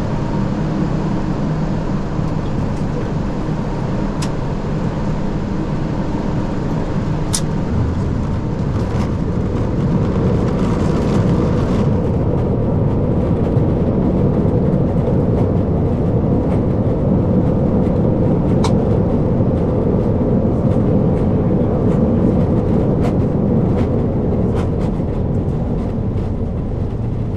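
Flight-deck noise of an Airbus A340-600 rolling out just after touchdown: a steady, loud rumble of its four Rolls-Royce Trent 500 engines and wheels on the runway. The rumble swells about ten seconds in and eases a little near the end, with a few light clicks along the way.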